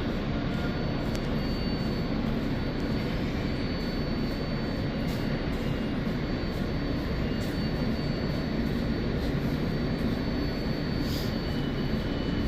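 New York City subway train running, a steady rumble of wheels on rails with a faint high whine over it.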